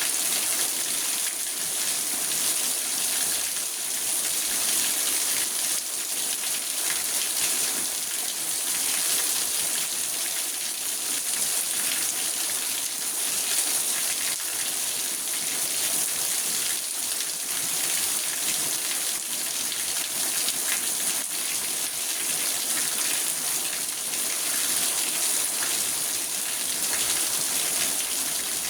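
Steady rain on a car, heard from inside the cabin: a dense, even patter of drops that keeps up without a break.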